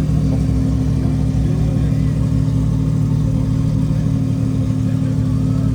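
A car engine idling steadily at an even, unchanging pitch.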